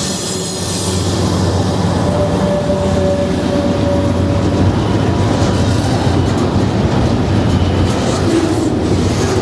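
Norfolk Southern freight train rolling past at close range, a steady rumble of cars on the rails, with a faint wheel squeal for a couple of seconds near the middle.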